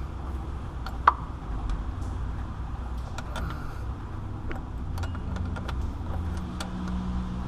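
A wrench clinking against metal line fittings in the engine bay, with one sharp metallic clank about a second in and fainter clicks after it, over a low steady rumble; a low hum comes in about five seconds in.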